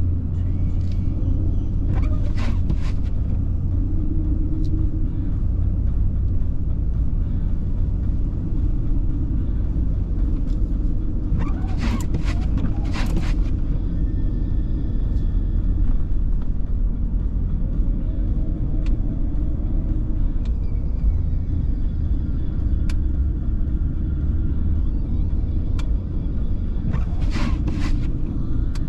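Steady low road and engine rumble inside a car driving through snow. Three brief scraping bursts, each about a second long, come about 2, 12 and 27 seconds in.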